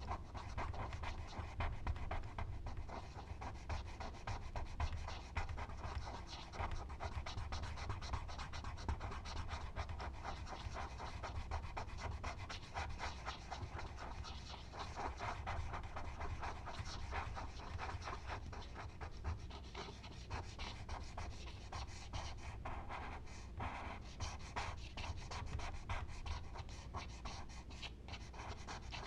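Charcoal scratching on drawing paper in quick back-and-forth strokes, a dense run of short rasping scrapes over a steady low hum.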